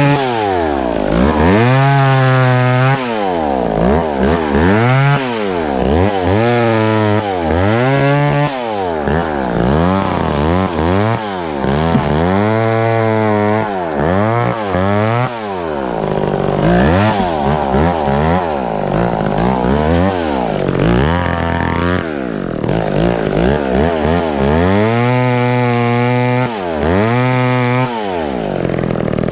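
Chainsaw working through cuts in wood, its engine pitch rising and falling over and over, every second or two.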